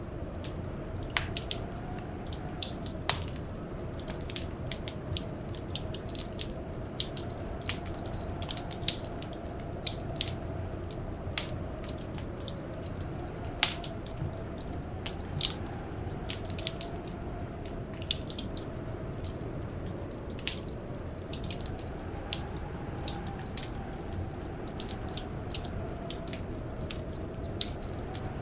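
Wood fire crackling, with irregular sharp pops and snaps over a steady low rumble. A faint wind howl slowly rises and falls in pitch underneath.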